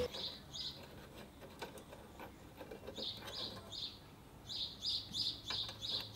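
Small bird chirping in short high notes: a pair just after the start, a quick run about three seconds in and another toward the end. Faint clicks of a brass pipe fitting being handled and screwed on by hand lie underneath.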